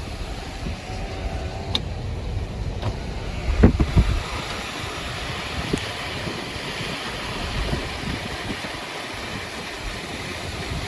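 Car driving on a snowy, salted road, heard from inside: steady tyre and road noise with a low rumble, and a couple of bumps about four seconds in.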